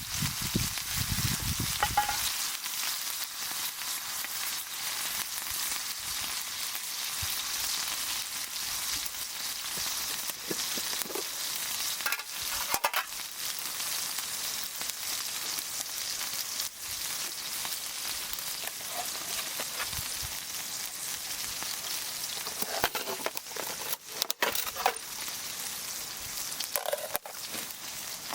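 Food sizzling steadily in a pan over a wood campfire, with a few sharp clicks and knocks along the way.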